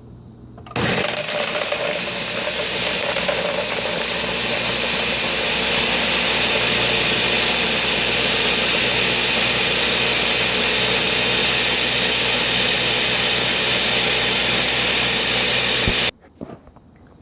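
Countertop blender switched on, running steadily through a batch of fruit-and-greens smoothie for about fifteen seconds, then switched off suddenly.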